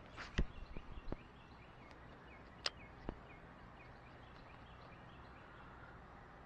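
A bird calling in a quick series of short, repeated high notes, with a few sharp clicks in the first three seconds.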